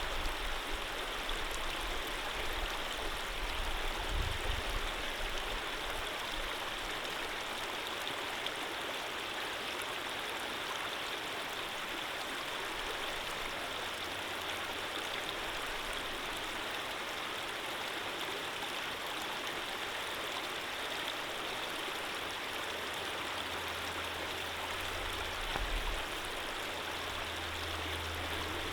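Running water of a gentle stream flowing steadily, with a brief low rumble about four seconds in and again near the end.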